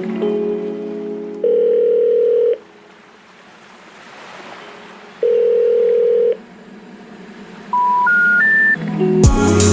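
A telephone line's ringing tone beeps twice, each a steady one-second tone, about three and a half seconds apart. Then come three short beeps rising in pitch, the telephone network's special information tone. Music fades out in the first second and a half, and loud bass-heavy music starts near the end.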